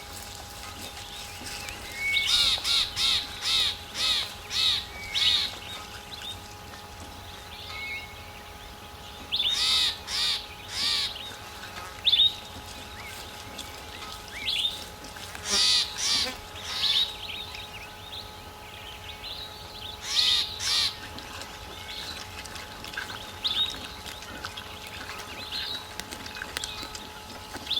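A bird calling loudly in four runs of several notes, about two a second, with single softer chirps between the runs, over a faint steady hum.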